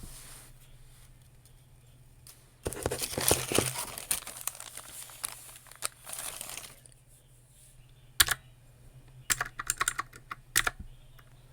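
Typing on a computer keyboard in bursts: a dense run of rapid keystrokes with rustling early on, then a few scattered single key clicks in the last few seconds.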